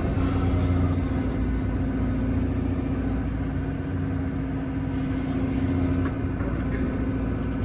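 Excavator's diesel engine running steadily, a constant low rumble with a steady hum.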